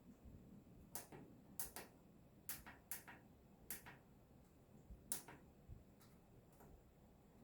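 About eight faint, sharp clicks at irregular intervals, bunched in the first half, with a couple of fainter ones near the end.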